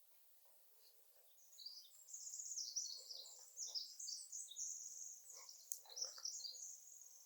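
Faint, high songbird chirping and twittering that begins about a second and a half in and continues as a dense run of short notes.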